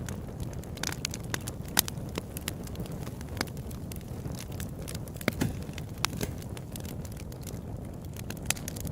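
Open-air campfire crackling: irregular sharp pops and snaps, a few louder than the rest, over a steady low rumble.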